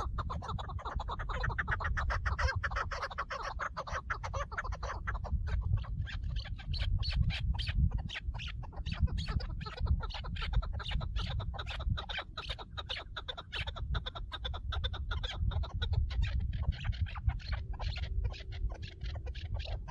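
Chukar partridges calling, a rapid run of clucking chuck notes over a low rumble.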